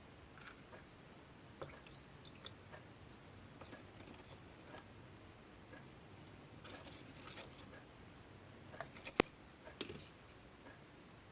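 Clear slime being handled and mixed, giving faint sticky clicks, crackles and squishes, with a sharper click about nine seconds in.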